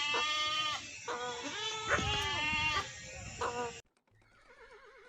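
Goat bleating: three or four loud, wavering bleats in quick succession, which cut off abruptly near the end and leave only a faint wavering sound.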